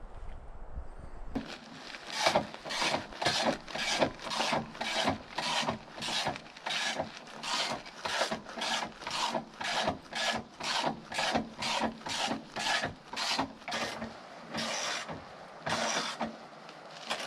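Hand saw cutting through wood in quick, even back-and-forth rasping strokes, about two to three a second, starting about a second and a half in with a brief pause near the end.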